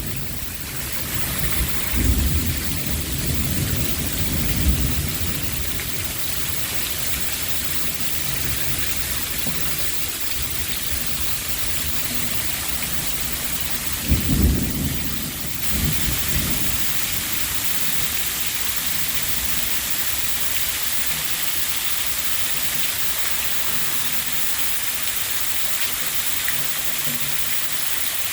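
Torrential rain pouring down in a thunderstorm, a steady hiss throughout, with thunder rumbling twice: about two seconds in and again about halfway through.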